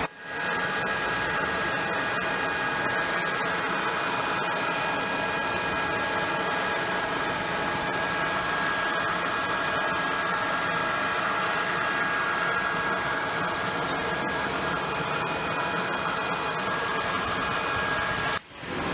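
Aircraft turbine engine running steadily on an airfield: an even rush of noise with a constant high whine. It drops out briefly near the end.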